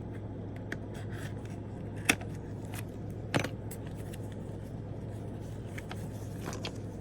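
Nail polish bottles and their packaging being handled: scattered small clicks and taps, with two sharper clicks about two seconds and three and a half seconds in, over a steady low hum.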